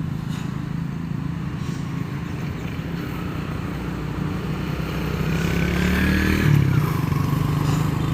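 Diesel engine of a Hino truck running steadily, growing louder about five seconds in as it comes close, with a rising whine near its loudest point.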